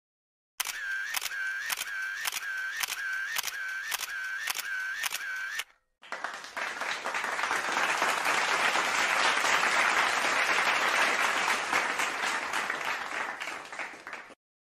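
A camera shutter firing in a rapid series, about a dozen evenly spaced clicks, then after a brief gap a stretch of applause that fades away near the end.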